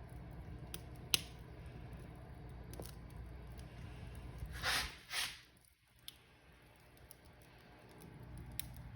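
Wood fire crackling, with scattered sharp pops over a low steady rumble; a sharp pop about a second in, and two louder hissing bursts a little past the middle, after which the rumble briefly drops away.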